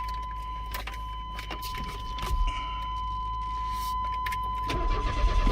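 Keys rattling and clicking in the ignition of a 1995 Chevrolet S10, with a steady high warning tone from the dash once the key is on. No fuel pump hum is heard, the sign that the pump is not running. Near the end a low pulsing rumble begins.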